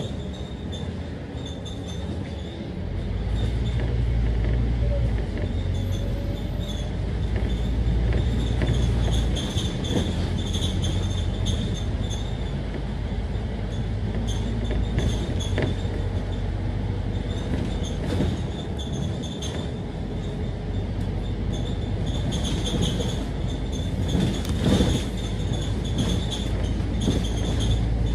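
Scania K310UD double-decker bus with a five-cylinder diesel engine running on the move: a deep engine rumble that rises about three seconds in and rises and falls several times through the gears, with a steady high whine over it.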